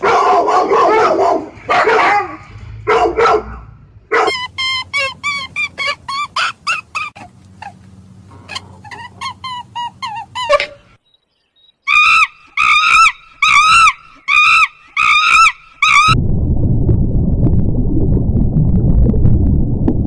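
A husky-type sled dog vocalizing in loud, drawn-out pitched calls for the first few seconds. A run of short, quick, high-pitched calls follows, then after a brief silence a series of arching squeals at about two a second. Near the end comes a steady low rushing noise of water.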